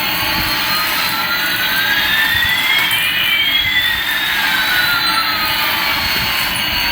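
Jet-engine sound effect: a steady hiss with one tone sweeping upward and another sweeping downward, the two crossing about halfway through.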